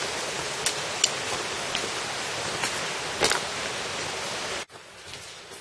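Rushing mountain stream water: a steady hiss with a few sharp splashes. It cuts off abruptly near the end, leaving a much quieter outdoor background.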